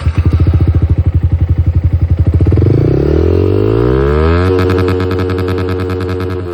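Yamaha R15 V4's single-cylinder four-stroke engine and exhaust, starting at a pulsing idle and then revved. The pitch climbs steadily for about three seconds, holds high and then begins to ease off near the end.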